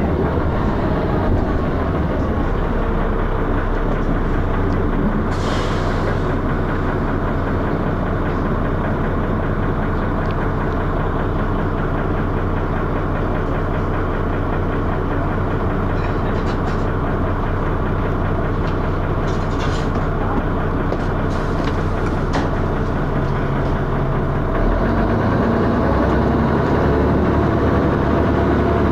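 Dennis Arrow double-decker bus's diesel engine running with heavy thrash, heard from on board, with a few light rattles. The engine note changes near the end.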